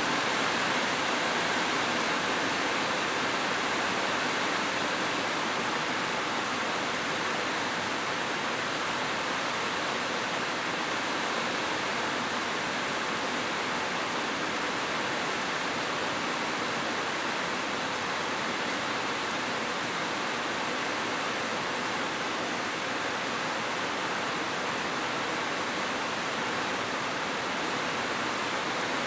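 Heavy rain falling as a steady, unbroken hiss, with no separate drops or thunder standing out.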